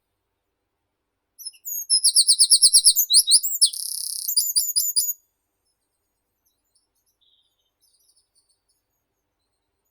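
A songbird sings one loud song of about four seconds: a quick run of repeated high notes, a buzzy stretch, then a few closing notes. Faint bird chirps follow near the end.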